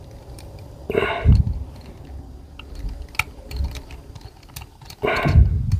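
Small, scattered clicks and taps of hand tools and metal parts being worked on an air rifle while a part is threaded in, with two louder handling noises about a second in and near the end.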